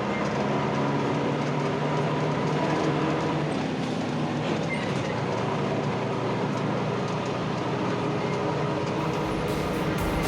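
Inside an Ikarus-260 city bus on the move: the diesel engine running steadily under road and body noise. A deeper rumble joins near the end.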